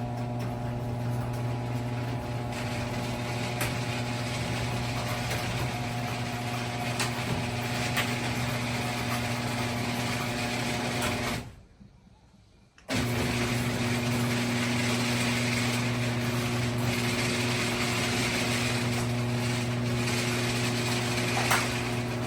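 Genie H4000 screw drive garage door opener running, its motor humming steadily as it drives the door. About eleven seconds in it stops for a second or two, then starts again and runs on: the stop-and-restart the owner puts down to a faulty RPM sensor that keeps the door from closing all the way.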